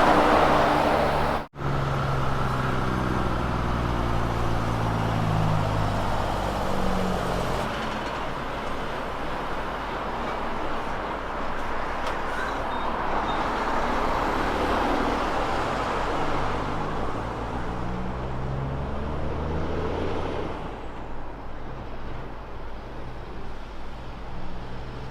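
A Kenworth truck's diesel engine pulling through its gears, its pitch climbing in steps, with a second run of rising pitch later on before the sound eases off near the end. There is a sudden break about one and a half seconds in.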